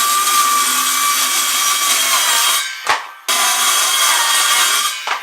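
A power saw cutting freehand through a wooden panel, its motor tone sagging slightly under load. It runs in two cuts with a brief stop and a sharp click between them, near the middle.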